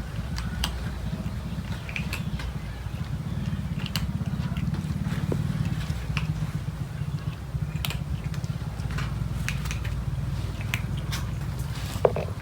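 Several cats chewing and crunching their food: irregular small clicks and crunches over a steady low hum.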